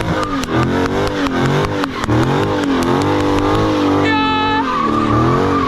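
A V8 car engine revving hard, its pitch rising and falling again and again, with sharp crackles in the first two seconds. A brief high-pitched squeal comes about four seconds in.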